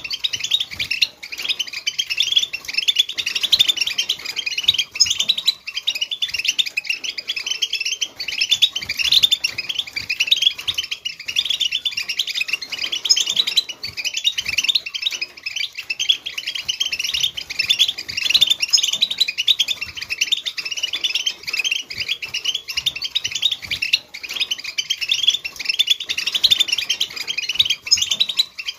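A flock of European goldfinches singing together: a dense, unbroken chorus of rapid, overlapping twittering chirps.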